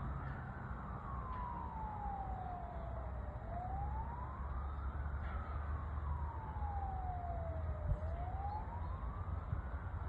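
A siren wailing: its pitch rises quickly over about a second, then falls slowly over about three, repeating about every four and a half seconds over a low rumble.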